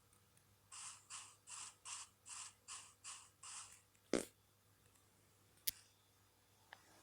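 About eight short crunching sounds in a steady rhythm, roughly two and a half a second, then a single knock about four seconds in and a sharp click near six seconds.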